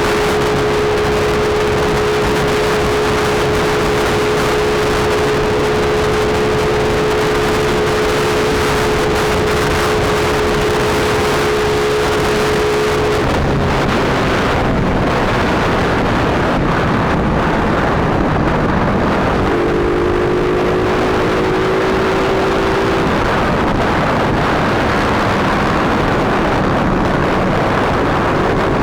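Suzuki Smash single-cylinder four-stroke motorcycle running flat out at top speed, its engine holding a steady high note under heavy wind rush on the microphone. The engine note fades about halfway through and comes back a few seconds later, climbing slightly.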